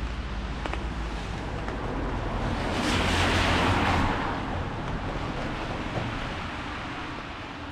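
Steady rain with a car passing on the wet street: its tyre hiss swells to a peak about three seconds in and fades away.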